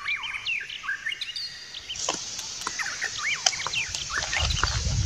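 Small birds chirping and calling, many short rising-and-falling notes. A steady hiss joins about two seconds in, and a low rumble of wind on the microphone builds near the end.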